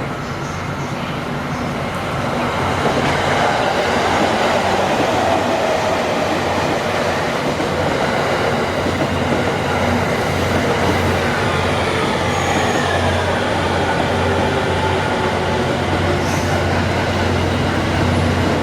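Electric train running alongside a station platform: a steady low hum, growing louder a couple of seconds in, with whining tones that fall in pitch as it goes.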